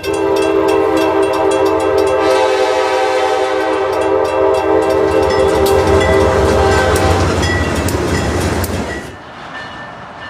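A train passing and sounding its horn, a chord of several steady tones, over a loud rumble with wheels clicking on the rails. The horn stops about seven seconds in, and the rumble drops away about two seconds later.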